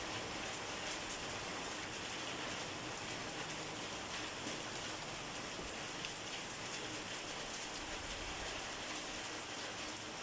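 Steady rain falling: a continuous even hiss with faint scattered drop ticks.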